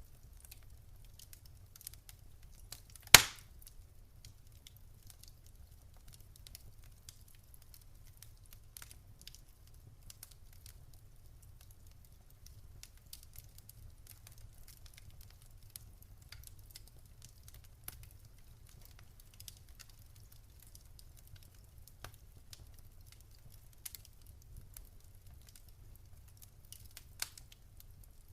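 Wood fire crackling in a fireplace: scattered small pops and snaps, with one sharp loud pop about three seconds in and a smaller one near the end, over a faint low rumble.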